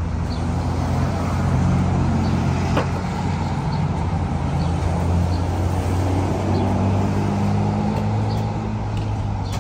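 A motor vehicle engine running steadily at low revs, its low hum drifting slightly in pitch, with a single short click about three seconds in.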